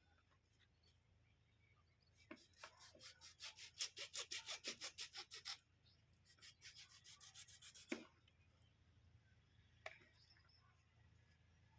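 Faint rhythmic rubbing or scraping strokes, about five a second, in two runs, followed by a sharp knock and a lighter one.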